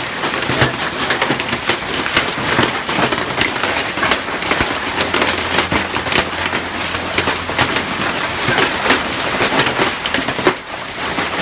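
Hailstones pelting down hard in a dense, unbroken clatter of countless sharp impacts, loud throughout, with a brief lull near the end.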